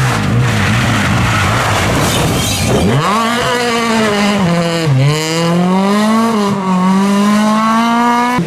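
Small Fiat rally car's engine, first under a few seconds of rushing noise, then revving hard as the car accelerates, its pitch climbing through the gears with brief dips at two shifts.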